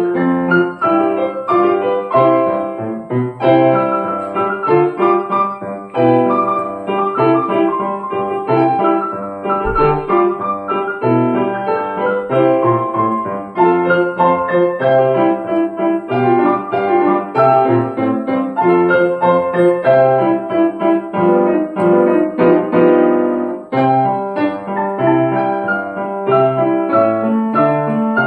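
Piano four-hands duet: two players at one piano playing a steady stream of notes over a low bass line.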